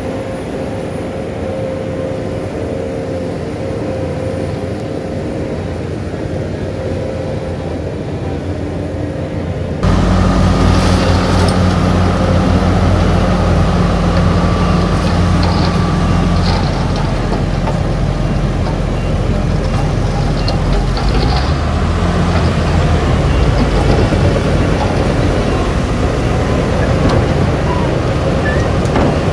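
Heavy diesel earthmoving machinery running steadily. About a third of the way through, the sound cuts abruptly to a louder, deeper engine working, with scattered metallic clanks over it.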